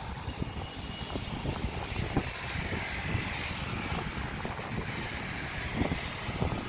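Heavy rain with wind buffeting the microphone, giving a steady rushing hiss and a fluttering low rumble. A faint high whine swells and fades in the middle.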